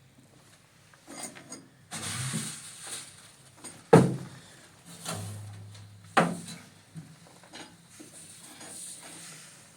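Handling sounds: a stretch of rustling or scraping, then two sharp knocks about two seconds apart, with lighter clicks between.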